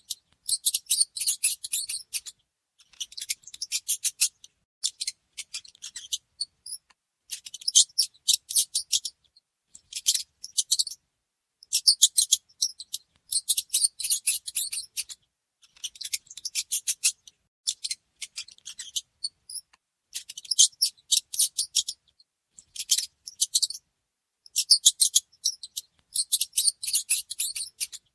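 Mice making rapid, high-pitched clicking and scratching sounds in bursts of one to two seconds, broken by short silences, over and over.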